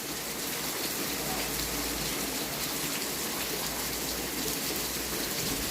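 Heavy thunderstorm rain falling steadily, an even hiss of rain pouring down.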